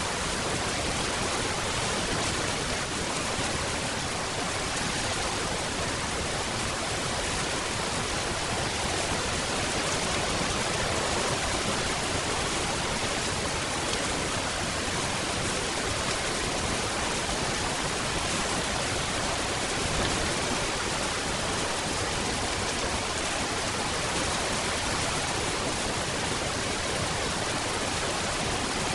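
Steady, even rain falling, a dense hiss with no distinct drops or thunder.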